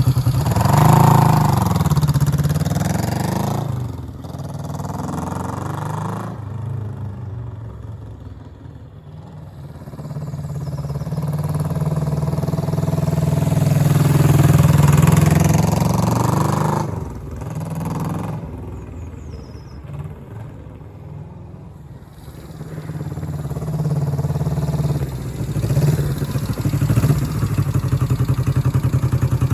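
1968 Honda CB250K0's 250 cc parallel-twin four-stroke engine being ridden, its note rising and falling with the throttle. It grows louder and fainter twice as the bike comes close and moves away again.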